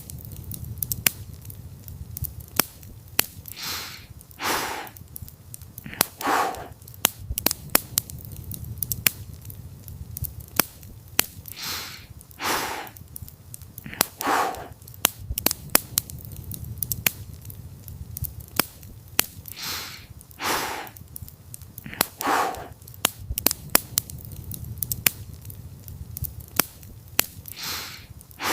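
Campfire crackling, with frequent sharp pops and snaps over a low steady rumble. Soft breathy swells, like slow sleepy breaths, come in a repeating pattern of about three every eight seconds.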